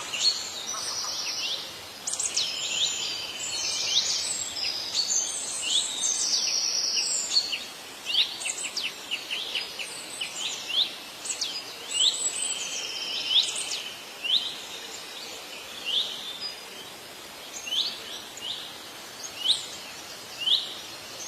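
Several songbirds singing and chirping together, with buzzy trills and quick sharp chirps overlapping. About two-thirds of the way through, this thins to single high chirps repeated about once a second.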